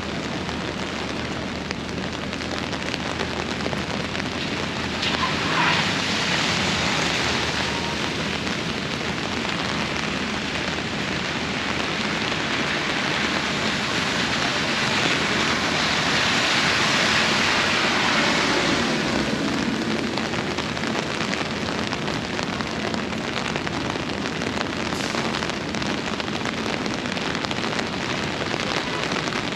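Heavy rain falling steadily in a hard tropical-storm downpour, swelling louder for a few seconds about halfway through.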